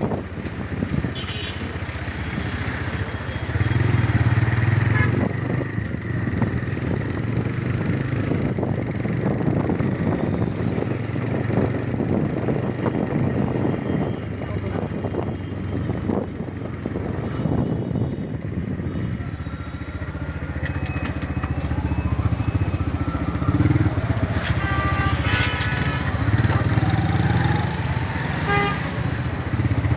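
TVS Raider 125 motorcycle's single-cylinder engine and exhaust running steadily while riding, with road and wind noise. Vehicle horns sound a few times in the last third.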